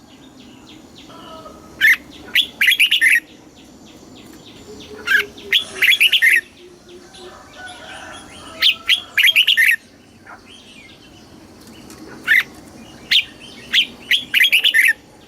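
Red-whiskered bulbul singing: short, loud, warbling whistled phrases every two to three seconds, with softer chirps between them.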